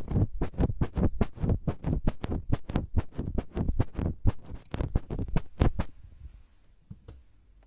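ASMR trigger sounds close on the microphone: a fast run of tapping and scratching strokes, about six or seven a second. The strokes stop about six seconds in, leaving only a few faint ones.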